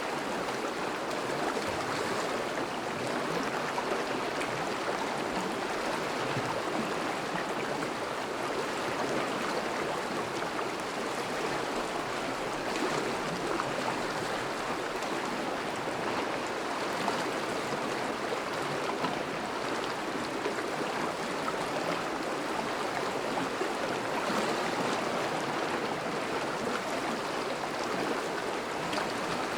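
River water flowing steadily over a thawing riverbed, an even rushing and babbling of current.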